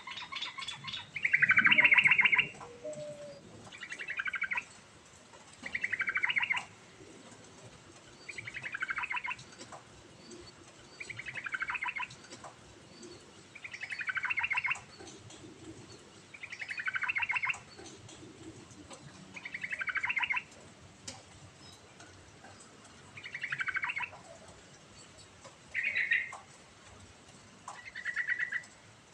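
Yellow-vented bulbul singing: a short, similar song phrase repeated about every two seconds, over and over.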